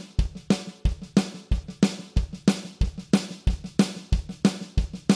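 Drum kit playing a steady beat: alternating eighth notes on the snare with accents on 2 and 4, and the bass drum on 1 and 3, about one bass-drum stroke every two-thirds of a second.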